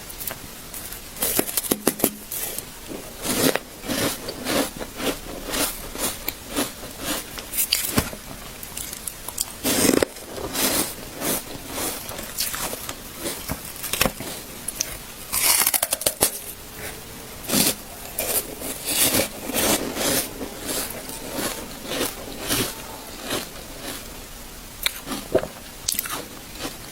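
A person biting and chewing hard ice, giving irregular sharp crunches and cracking.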